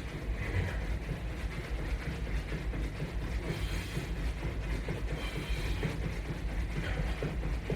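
Steady, quick footfalls of a person jogging in place against a resistance band anchored to a wall-mounted bar.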